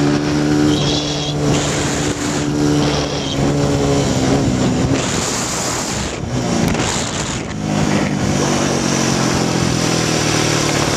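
Honda XR100 dirt bike's single-cylinder four-stroke engine running under a helmet-mounted microphone. The engine note holds steady, blurs into a noisy rush for a few seconds midway, then settles into a steady note again.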